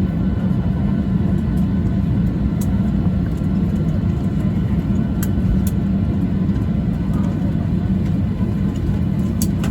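Steady low rumble of the airliner cabin on the ground after landing, from the idling jet engines and airframe, with a few faint light clicks.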